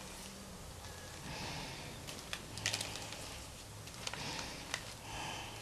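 Soft brushing and scraping of paint on a paper journal page, with a few light clicks and taps about halfway through.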